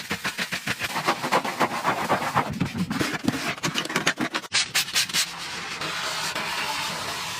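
Rapid rhythmic scrubbing, a surface being rubbed back and forth several times a second. After an abrupt cut about four and a half seconds in, a few more strokes give way to a steadier hiss.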